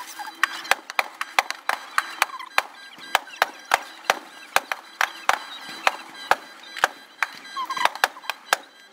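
Aerial fireworks shells bursting in a rapid, uneven string of sharp bangs, about three a second.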